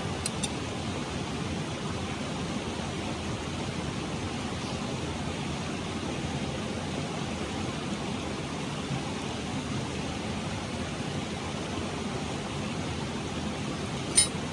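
Mountain stream rushing steadily, with two small clicks just after the start and one sharp click near the end.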